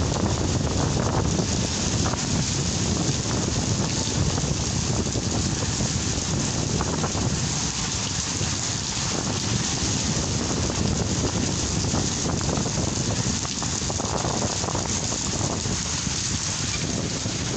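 Steady rain falling in a gusty nor'wester (kalbaishakhi) storm, with wind rumbling on the microphone.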